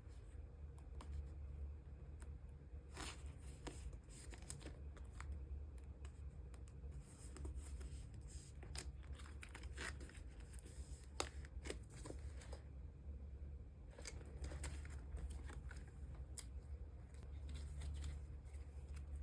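Thin plastic card sleeves rustling and crinkling, with scattered light clicks and taps, as photocards are slid into sleeves and handled. A low steady hum lies underneath.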